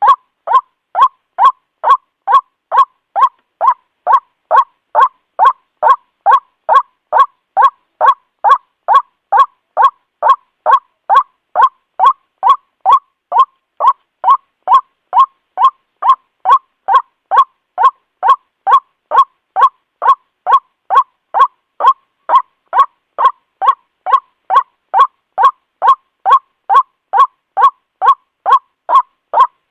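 White-breasted waterhen (ruak-ruak) calling, the same short note repeated evenly at about two a second without a break, as on a looped lure recording.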